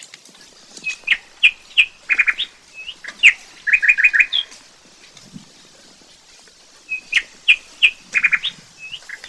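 Bird song: a phrase of bright chirps and quick falling notes, including a fast run of four, heard twice in the same pattern with a pause of about two seconds between.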